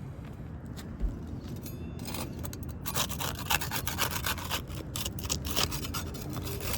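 Smooth metal putty knife scraping under asphalt composition shingles to break their seal: a run of irregular rasping scrapes that starts about two seconds in. The shingles are shedding a lot of granules as they are unsealed.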